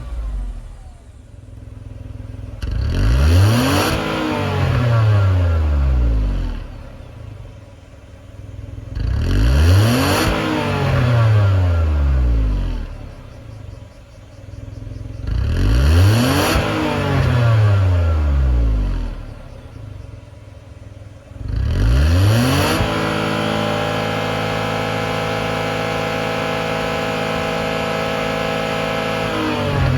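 Nissan Dayz BR06 660 cc three-cylinder engine being revved: three times it climbs quickly, holds briefly and falls slowly back to idle, then it is raised again and held at a steady higher speed through the last several seconds.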